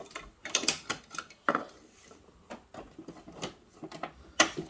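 Hard plastic clicks and clacks from Bruder toy garbage trucks being handled, a few irregular knocks about a second apart.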